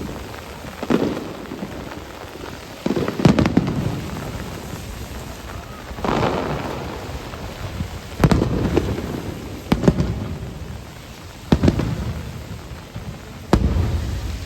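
Aerial fireworks shells bursting, about seven booms a second or two apart, each trailing off in a rumbling echo, over a steady hiss of falling rain.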